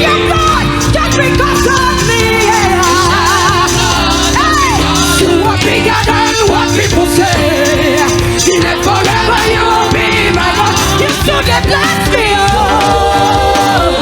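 Gospel choir singing praise music with steady instrumental accompaniment. The voices waver with vibrato over sustained chords and a bass line.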